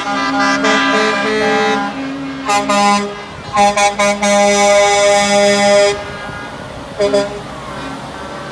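Truck air horns honking, several notes sounding together: a run of changing notes in the first two seconds, short toots between two and a half and three seconds in, a long blast from about three and a half to six seconds, and one more short toot near seven seconds.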